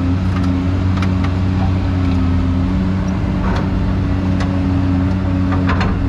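Excavator's diesel engine running steadily under load, its pitch wavering slightly, with a few sharp clanks and knocks over it, most noticeably about a second in, midway and near the end.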